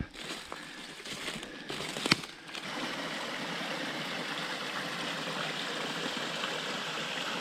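Small mountain creek running steadily, the flow setting in evenly about two and a half seconds in. Before it, a few scattered rustles and one sharp click.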